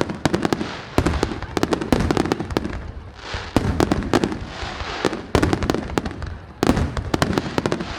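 Aerial fireworks bursting in quick succession, a dense run of sharp bangs with echoing tails and a stretch of crackling hiss in the middle.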